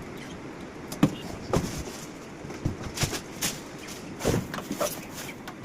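Scattered knocks and clicks, about eight of them at uneven intervals, over a steady background noise.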